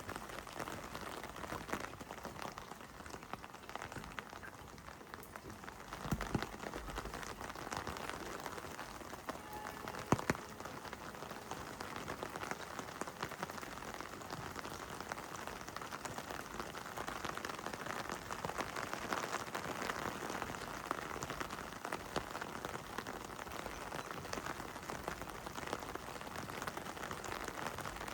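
Heavy rain falling steadily, a dense hiss of many individual drops hitting wet surfaces. A single sharp knock stands out about ten seconds in.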